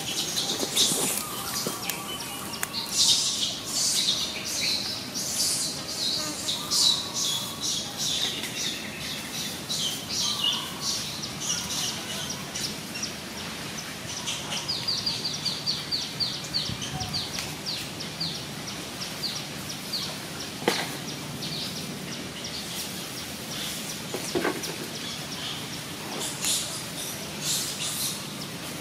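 Wild birds chirping in quick trains of short, high notes, busiest in the first half. Two short sharp clicks come in the second half.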